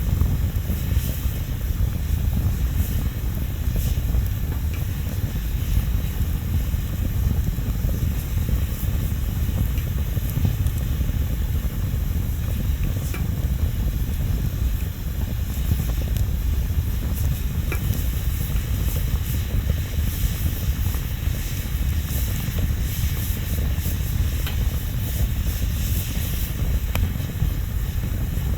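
Wood bonfire burning: a steady low rumble with a thin hiss above it and scattered small crackles and pops.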